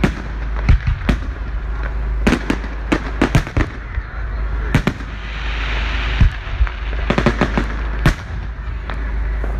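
Aerial fireworks bursting in a fast, irregular string of sharp bangs, some in quick clusters, with a hissing crackle about five seconds in.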